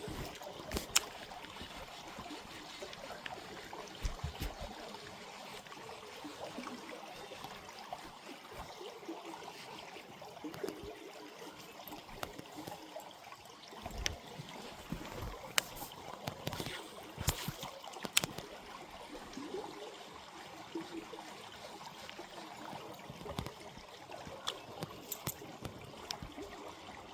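Creek water trickling and running steadily, with a few scattered sharp clicks and knocks.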